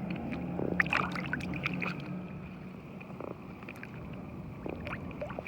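Water splashing and lapping against a kayak's plastic hull, with a cluster of small splashes and clicks about a second in, over a steady low hum.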